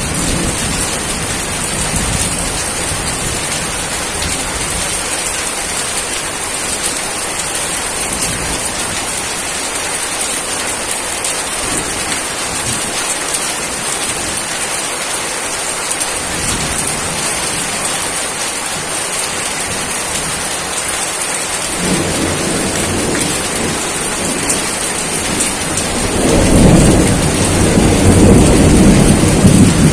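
Steady rain hiss, with a low rumble of thunder that begins about three-quarters of the way in and grows loudest near the end.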